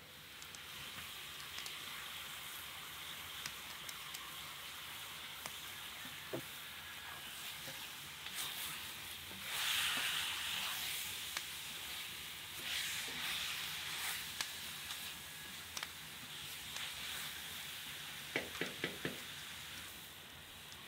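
Meat and chopped onion sizzling as they fry in a cast-iron cauldron, a steady hiss that swells louder about halfway through. A few quick clicks sound near the end.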